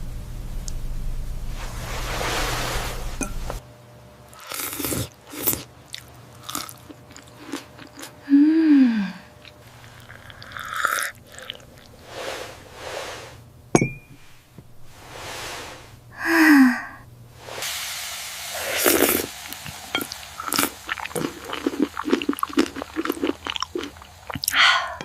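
A person eating close to the microphone: chewing and crunching food, with many short irregular clicks and crunches.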